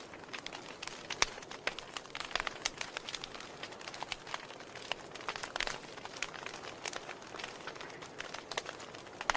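Wood fire crackling in a fireplace: irregular sharp pops and snaps, several a second at times, over a soft steady hiss of burning.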